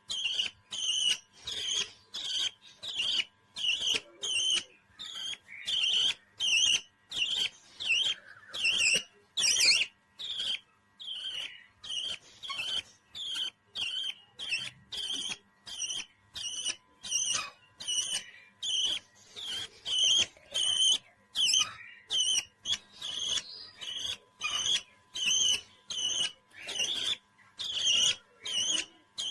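A pet parrot calling over and over in short, shrill chirps, about two a second, in an even, steady rhythm.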